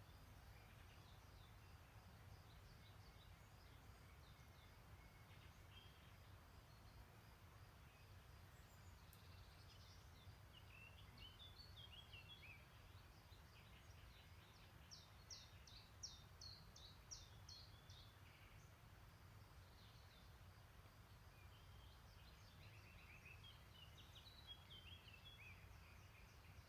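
Faint, distant songbirds singing several short phrases; the loudest is a quick run of high repeated notes about two-thirds of the way through. Underneath is a faint, steady low rumble.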